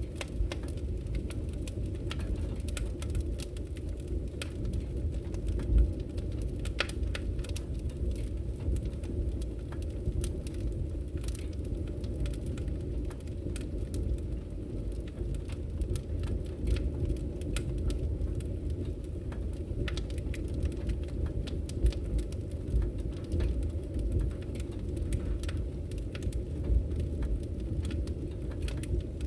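Wood fire burning in a fireplace: a steady low rumble of the flames with frequent sharp crackles and pops, one louder pop about six seconds in.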